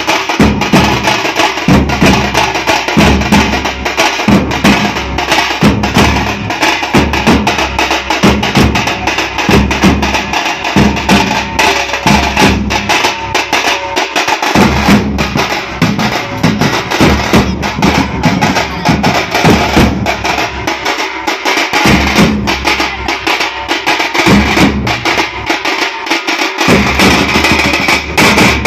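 A drum band playing loud, fast drumming: a dense run of rapid strokes over deep bass-drum beats, which drop away briefly twice in the second half.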